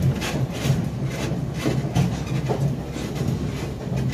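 Passenger train running along the track, heard from on board: a steady low rumble with irregular clacks and knocks from the wheels on the rails.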